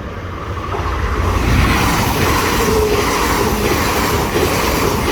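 A train passing through a level crossing at close range: a loud rush of wheel and rail noise that builds about a second in and stays steady.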